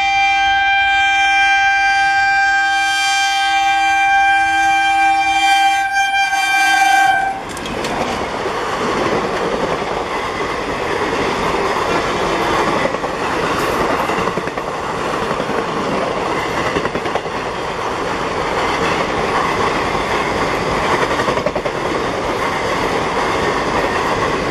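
Electric locomotive horn sounding one long, steady blast that cuts off abruptly about seven seconds in. After it, the rumble and clickety-clack of a long train of passenger coaches passing at speed.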